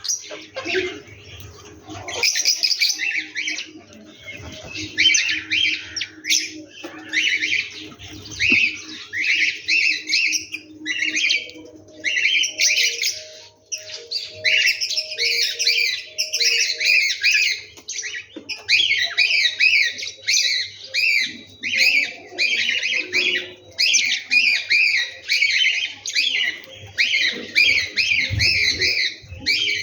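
A dense chorus of many birds calling and chattering at once, in overlapping bursts of a second or two that keep coming.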